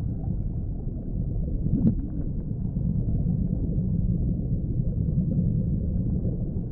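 Low, muffled underwater rumble of the open sea, steady throughout, with one faint brief chirp about two seconds in.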